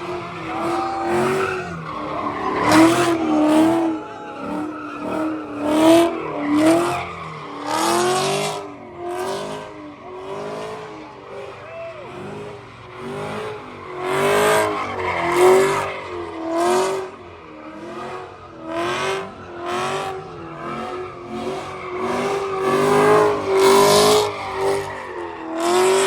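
A car's engine revved hard and held high, its pitch rising and falling about once a second as the throttle is worked, with tires squealing in repeated bursts, as in donuts or a burnout.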